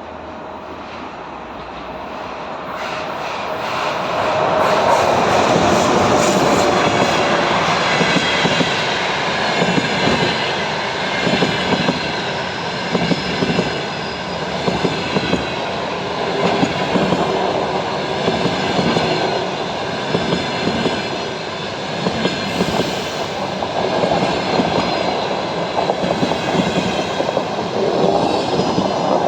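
EP1M electric locomotive hauling a passenger train past, growing louder over the first few seconds and loudest about five seconds in as the locomotive goes by. The coaches follow, rolling past with a steady rhythmic clickety-clack of wheels over the rail joints.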